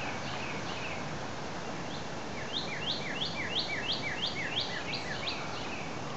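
A songbird singing: a few soft chirps at the start, then from about two and a half seconds in a quick run of about ten repeated notes, roughly three a second, over a steady outdoor hiss.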